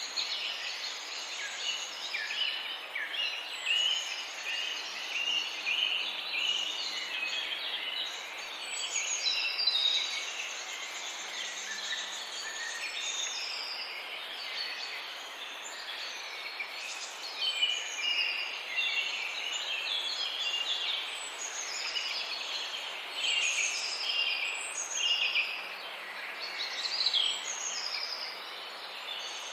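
Birds chirping and calling, a dense chorus of many short, high, overlapping chirps over a steady background hiss.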